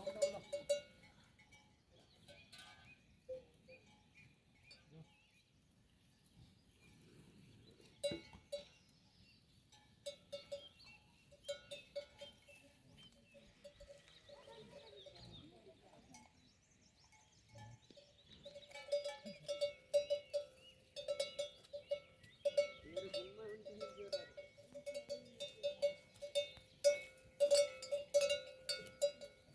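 Metal livestock neck bell clanking, off and on at first, then steadily and faster in the last third.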